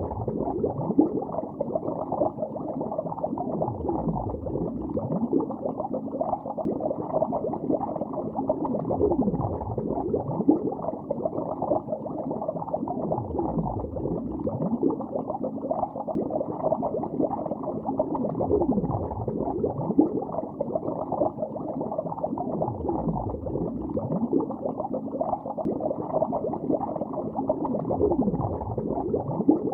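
Bubbles rising underwater in a lake, a dense, muffled bubbling and gurgling, with a deeper swell about every four to five seconds.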